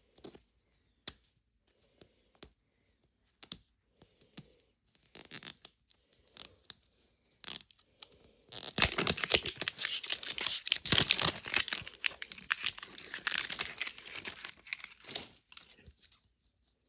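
Paper wrapping being torn and peeled off a Mini Brands capsule ball: scattered crinkles and small clicks at first, then a few seconds of continuous tearing and crinkling from about halfway in.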